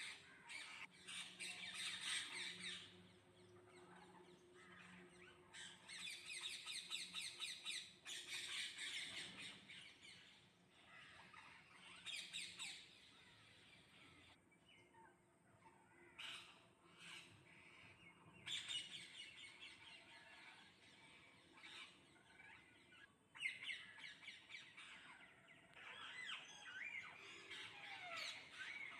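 Flock of parrots squawking and chattering, faint, in repeated bursts of a few seconds with quieter gaps between.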